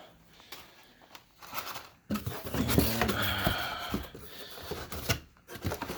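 Handling noises: a few clicks, then about three seconds of louder rustling and clatter as parts are moved around.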